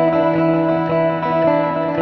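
Amplified phin, the Isan plucked lute, playing a quick melody of short plucked notes over a steady held drone note.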